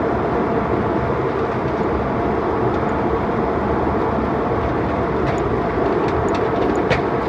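Steady roar of airliner cabin noise, the jet engines and the air rushing past the fuselage, heard from inside the passenger cabin. A few faint clicks come near the end.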